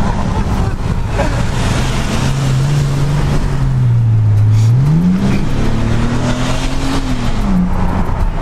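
Car engine heard from inside the cabin while driving, running steadily, then rising in pitch as it accelerates about five seconds in, holding and easing off near the end, over road and tyre noise.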